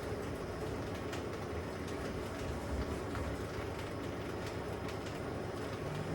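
LG WM6700HBA front-load washing machine running with a steady rumble, its drum turning with a calculator inside; faint irregular clicks come through over the rumble.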